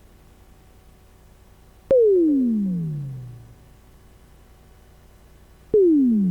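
Two electronic dub-style drop hits about four seconds apart. Each is a sharp click followed by a tone that slides quickly down in pitch and fades over about a second and a half, over a faint low hum.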